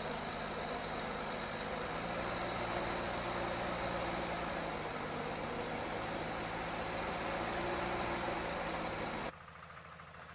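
Heavy vehicle engine running steadily, with a constant pitch. It cuts off abruptly near the end, leaving a much quieter background.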